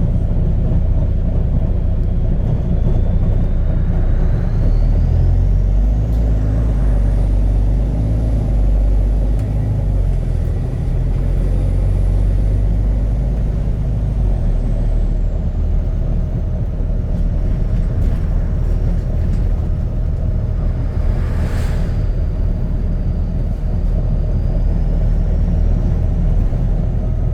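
Double-decker bus engine, a Volvo B9TL, running loudly through a burst exhaust with a deep, heavy rumble as the bus drives. A faint whine rises and then falls in pitch over the first half. A short hiss of air comes about two-thirds of the way through.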